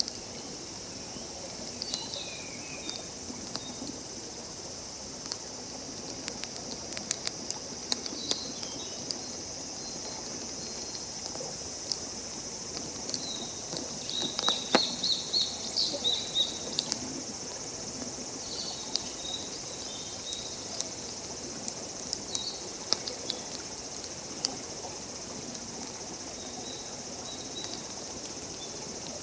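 Open wood campfire crackling, with scattered sharp pops, over a steady high-pitched background hiss; a run of short chirps comes about halfway through.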